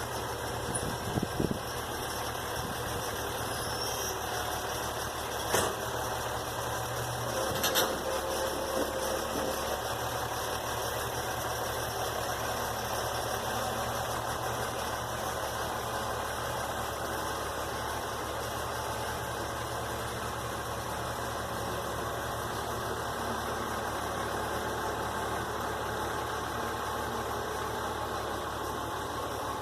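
A vehicle engine idling steadily, with a few sharp knocks in the first eight seconds or so.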